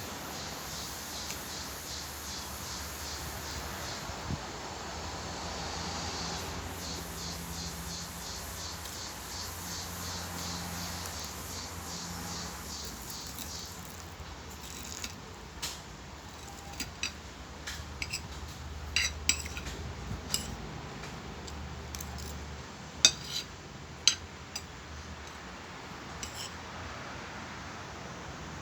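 Cutlery clinking and scraping against a plate during a meal: a steady background hiss for the first half, then scattered sharp clinks, a few louder ones near the end.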